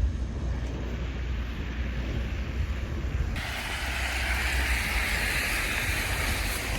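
Wind buffeting the microphone in a snowstorm: a steady low rumble under a hiss of wind, the hiss growing louder about three seconds in.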